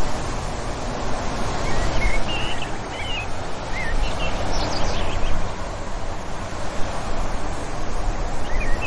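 Steady wind blowing with a low rumble, and birds chirping in the distance: short whistled chirps that come and go, in small clusters a couple of seconds in, around the middle and near the end.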